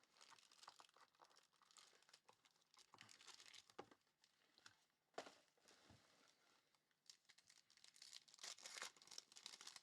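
Faint crinkling and tearing of foil trading-card pack wrappers being opened by hand, in scattered rustles with small clicks, busiest near the end.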